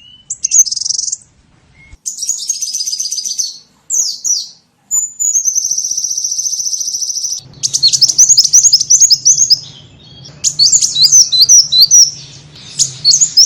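Small-bird lure call: high-pitched chirps and trills in short phrases, a long even trill about five seconds in, then quick repeated chirps from about halfway on with a faint low hum beneath.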